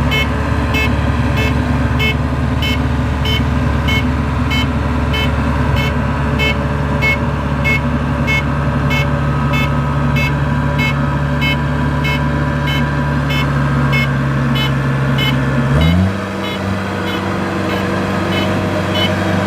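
Kubota DC-70 combine harvester's diesel engine running steadily under a short electronic warning beep that repeats about twice a second. Near the end the engine note steps up in pitch and holds there while the beeping continues.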